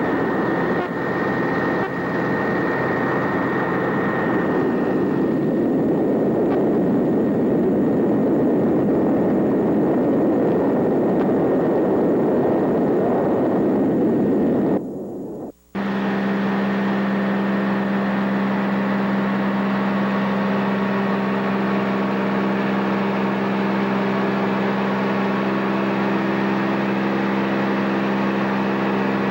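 PBY-5A Canso's twin radial piston engines running: a loud rushing engine and propeller noise, broken by a short dropout about halfway, after which a steady even drone with a strong low hum.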